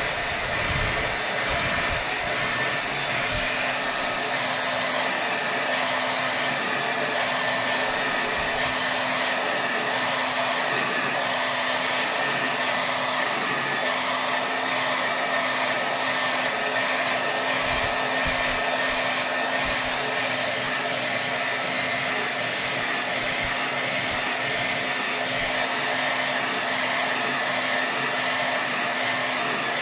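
Hair dryer running steadily at full power: a constant rush of air with a faint steady hum under it.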